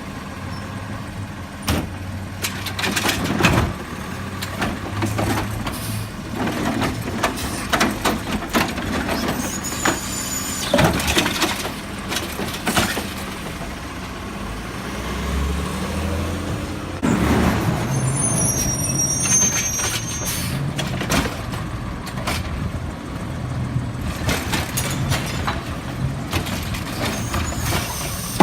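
Garbage truck working its collection route: the diesel engine runs and changes pitch, with many sharp clanks and knocks throughout and a brief high squeal about two-thirds of the way in.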